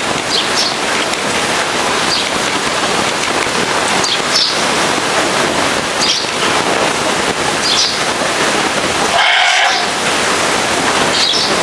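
Pressure washer spray jetting water onto a vehicle: a loud, steady hiss. Its tone changes briefly just after nine seconds.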